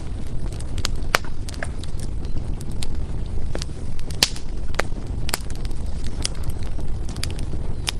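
Firewood burning with sharp, irregular crackles and pops over a steady low rumble of flame.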